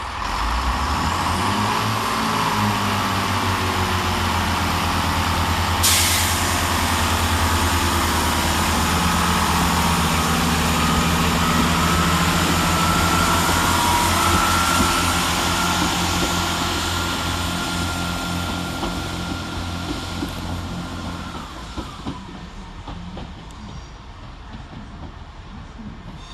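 Great Western Railway Class 165 diesel multiple unit pulling away from the platform: its underfloor diesel engines open up and run steadily under power, with a short sharp air hiss about six seconds in and a whine that slowly climbs in pitch, then the train fades into the distance over the last few seconds.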